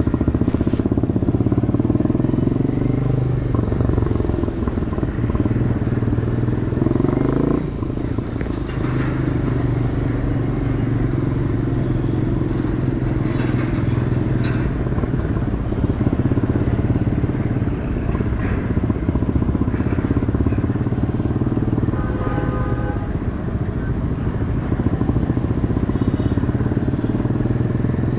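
Demak DTM 150 single-cylinder engine running through its stock exhaust under way: revs climb over the first several seconds, drop off sharply about seven and a half seconds in, then run fairly steadily. A vehicle horn beeps briefly about three-quarters of the way through.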